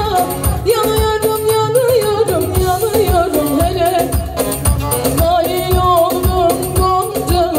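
Turkish folk music with a singing voice over a steady percussion beat, played loud over a sound system.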